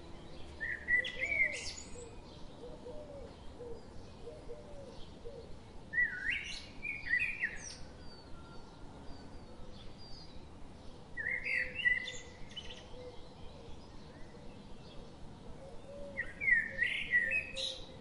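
A songbird singing a short phrase of quick chirpy notes four times, about five seconds apart, over a steady forest hush.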